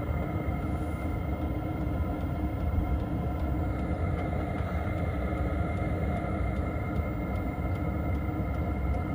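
5 kW diesel air heater running steadily: a low combustion rumble with a steady blower-fan hum.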